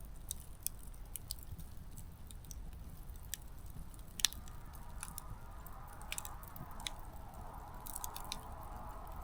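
Small wood campfire crackling, with irregular snaps and pops of burning firewood and one sharper pop about four seconds in. A soft hiss comes in about five seconds in.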